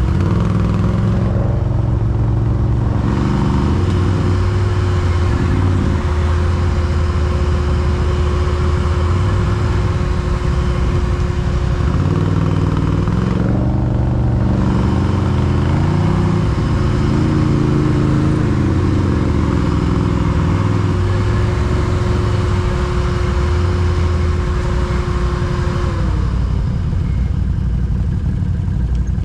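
ATV (quad bike) engine running under load, its revs rising and falling with the throttle, with a steady whine over it that drops away near the end.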